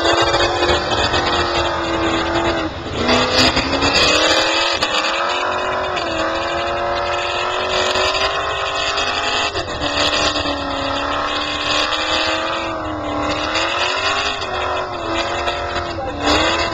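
Twin-supercharged Holden HQ ute's engine held at high revs through a burnout, its pitch wavering and dropping sharply twice, about three seconds in and again near ten seconds, before climbing back. A steady hiss of the rear tyres spinning in the smoke runs underneath.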